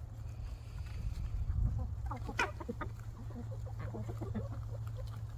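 Chickens clucking: a flurry of short clucks from several hens starts about two seconds in, one call sharper than the rest, over a steady low rumble.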